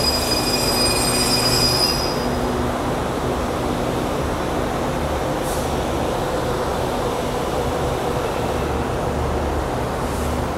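Stainless-steel passenger railcars rolling along a station platform: a high metallic wheel squeal for about the first two seconds, then a steady rumble of the train running on the track.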